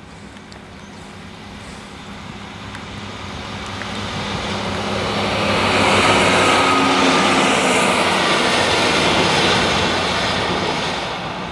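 Two-car diesel multiple unit passenger train passing close by: the rumble of wheels on the rails and its engines builds to a loud peak about halfway through, holds for a few seconds, then fades as it goes away.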